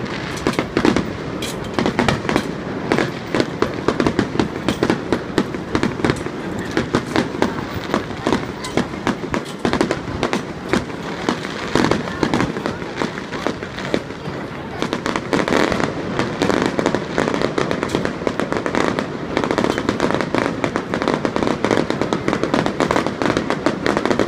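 Aerial fireworks bursting in quick succession, a near-continuous run of bangs, pops and crackles with many reports each second.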